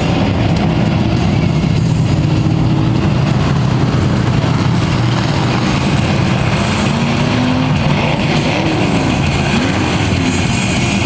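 Field of Thunder Truck race trucks running around the track under caution. The engine pitch rises and falls as trucks go by.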